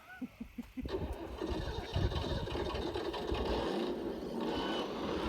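Brushless electric RC car running over gravel: a rough, steady rumble of motor, drivetrain and tyres that starts about a second in.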